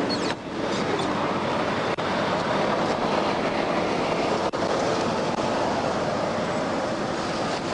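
Steady roar of highway traffic rushing past on the interstate beside a roadside stop, with a vehicle swelling past toward the end.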